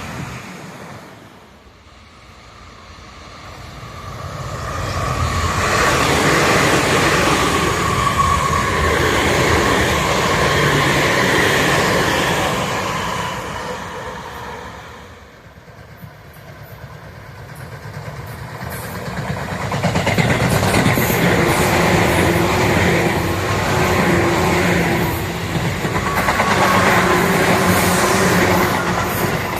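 Tobu Tojo Line electric trains passing, two in succession. Each swells up over a couple of seconds, runs loud for several seconds and then fades, the second one about two-thirds of the way in.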